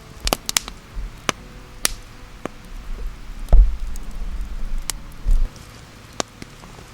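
Irregular sharp clicks and knocks from hands-on campfire cooking work, with a heavier dull thump about three and a half seconds in and another near the end.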